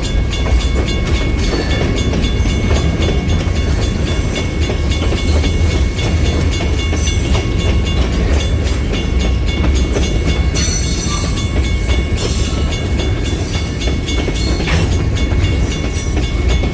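Freight train cars rolling past on the track: a steady heavy rumble with wheel clatter, and a brief hiss about ten seconds in.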